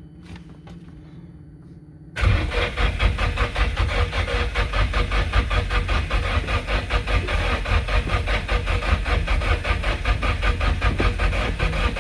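Starter cranking a freshly rebuilt Nissan SR20DET turbo four-cylinder, beginning about two seconds in: a fast, even chugging beat as the engine turns over without catching. It is a no-start on a newly rebuilt engine, with timing and spark still in question.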